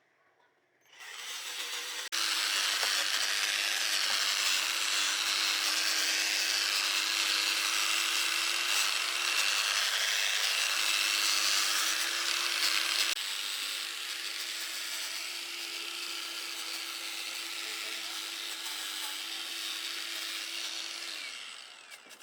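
Power tool running for about twenty seconds: a steady motor hum under a harsh, rasping noise. It gets louder about two seconds in and eases a little past the middle.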